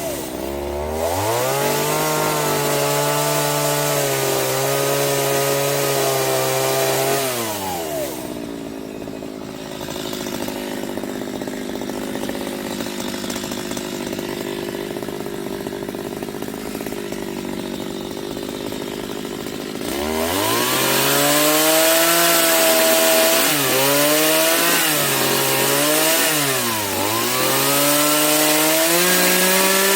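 Chainsaw cutting wood. Its engine note sags and recovers several times as the chain bites, and in the middle stretch the steady tone gives way to a rushing cutting noise before the engine note returns about two-thirds of the way in.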